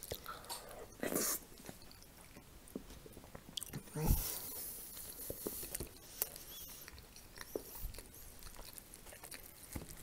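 Close-miked chewing of soft mashed potato, with small wet mouth clicks and smacks. About four seconds in there is a louder thump followed by a brief rush of noise.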